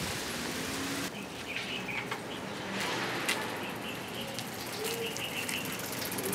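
Birds chirping in short, high calls over a steady outdoor hiss, with a few light clicks and ticks.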